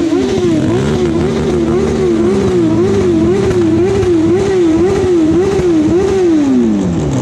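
Motorbike engine revving in quick, regular throttle pulses, its pitch rising and falling about twice a second, then dropping away steadily near the end as it slows.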